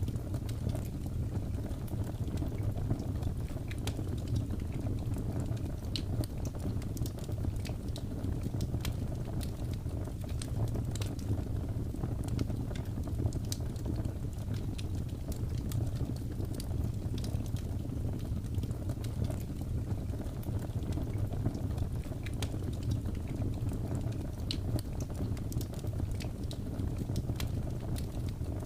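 Wood fire in a fireplace crackling: many small sharp pops scattered unevenly over a steady low rumble.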